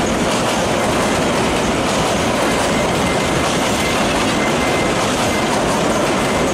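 Meter-gauge passenger coaches of an express train rolling fast past on a steel truss rail bridge: a steady, loud rush and rattle of wheels on the rails. A faint, high, thin tone sounds for a few seconds in the middle.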